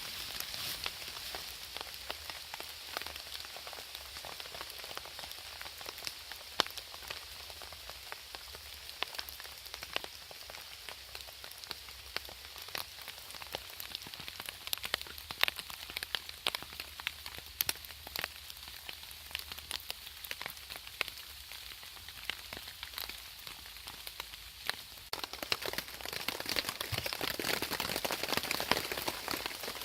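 Steady rain falling, with individual drops landing as sharp, irregular ticks. The rain grows louder about 26 seconds in.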